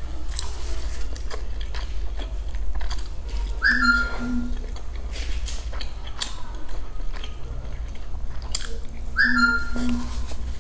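Close-miked biting and chewing of crisp pan-fried stuffed flatbread, with wet mouth clicks and small crunches throughout. Twice, about six seconds apart, a short high whistle-like chirp.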